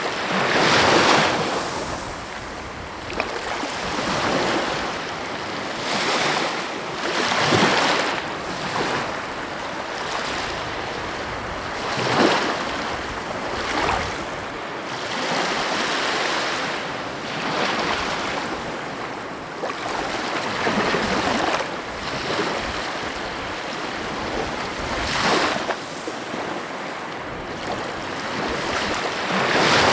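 Sea waves breaking on a shore: surges of surf that rise and fall every two to four seconds over a steady wash.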